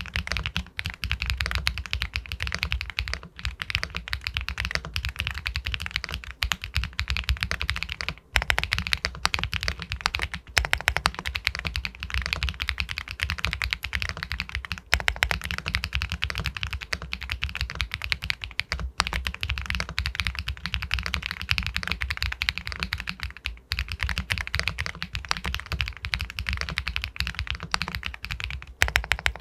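Fast, continuous typing on an Epomaker Galaxy 80 Pro, an aluminum-cased mechanical keyboard with White Jade linear switches, its keystrokes clacking densely with only brief pauses.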